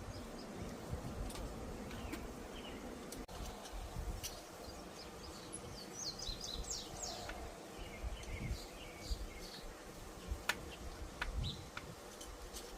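Birds chirping, a run of quick high falling chirps about halfway through, over a low steady rumble, with a few scattered sharp clicks.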